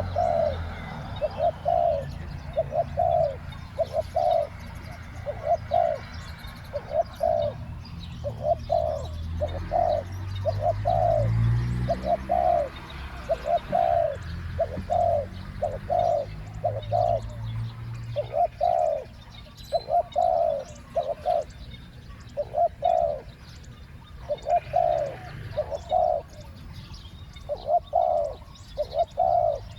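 Spotted dove cooing over and over, short coos coming in pairs and threes with brief gaps, over a low rumble.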